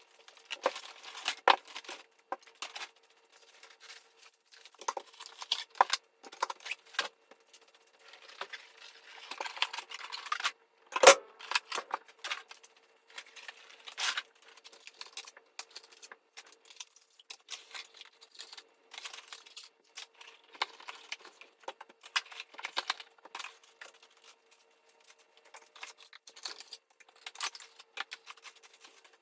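New car parts being unpacked from boxes and bags: cardboard and paper tearing, plastic crinkling, and metal parts clinking and knocking as they are set down, in irregular bursts, with one sharp knock about eleven seconds in.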